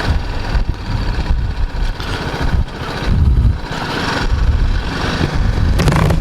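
BMW G310GS single-cylinder motorcycle engine running at cruising speed on the road, under a heavy, uneven rumble of wind buffeting the microphone.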